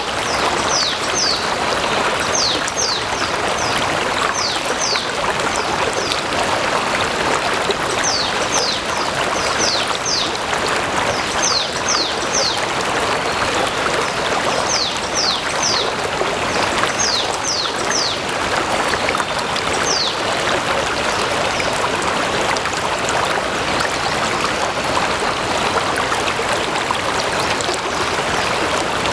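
A stream flowing steadily with a continuous rushing babble. Over it, for the first two-thirds, a bird repeats short, high, falling notes in quick clusters of two to four.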